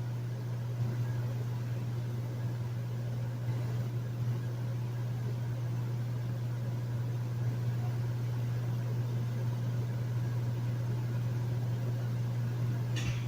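Hotel room air conditioner running steadily: a constant low hum with a soft airflow hiss over it. A brief tick sounds near the end.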